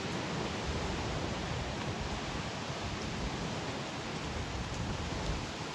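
Strong, gusty severe-thunderstorm wind blowing hard: a steady rushing noise with gusts buffeting the microphone.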